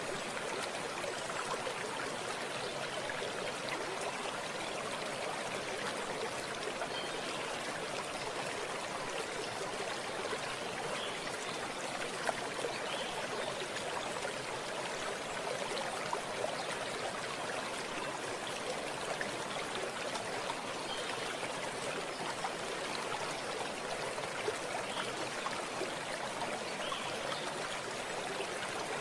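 Stream water running steadily over stones, a continuous rushing with small splashes and trickles.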